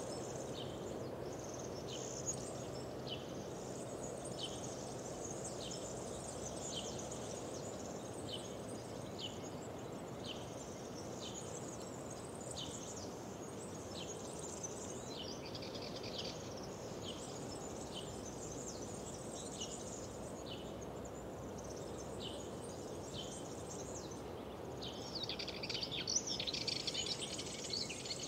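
Birds calling, with short high chirps repeated about once or twice a second over a steady low rushing background. A louder, busier burst of birdsong comes near the end.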